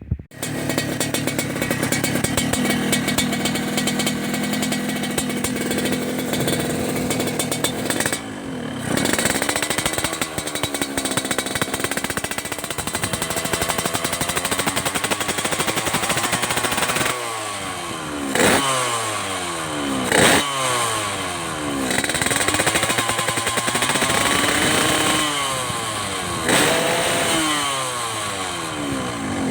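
Yamaha RX-King's two-stroke single-cylinder engine, fitted with a KX85 carburettor, running steadily and then given light throttle blips. A slow rise and fall in revs comes about ten seconds in, then a series of short, sharp revs in the second half.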